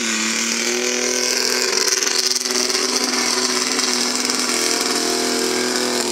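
A truck engine held at high, steady revs, a sustained engine note with a slight shift in pitch about four and a half seconds in, over a steady hiss.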